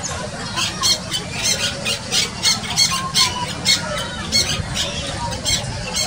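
Alexandrine parakeet calling: a run of about a dozen short, harsh screeches at an uneven pace, starting about half a second in and stopping shortly before the end.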